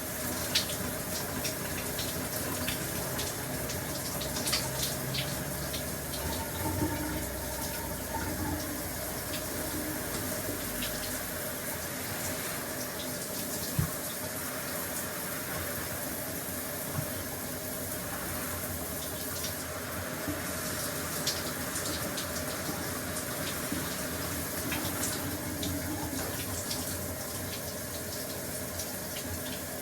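A shower running steadily: a continuous hiss of spraying water, with scattered sharper spatters and drips throughout.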